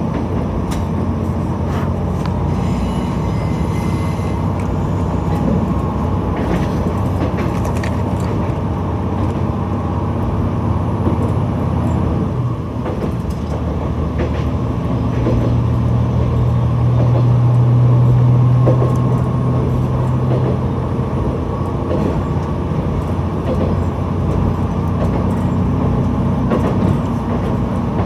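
Diesel railcar running along the line: a steady engine drone with scattered clicks from the wheels on the rails. About halfway through, the engine note swells louder for several seconds, then eases back.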